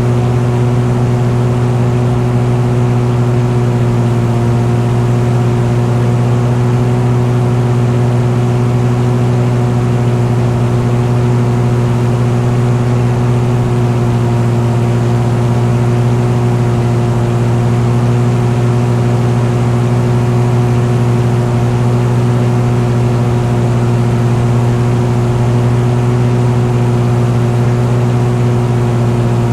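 Engine running steadily at constant speed, a loud, even drone that holds one low pitch.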